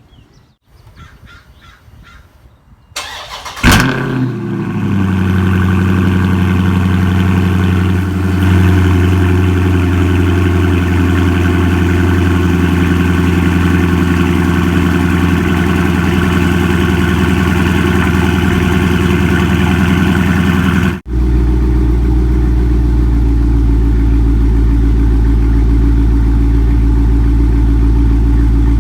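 A Dodge Charger Scat Pack's 392 Hemi V8 with its mid mufflers deleted cold-starts about four seconds in: a loud bark as it fires, then a steady fast idle. After a brief dropout about two-thirds of the way through, the idle sounds deeper and heavier.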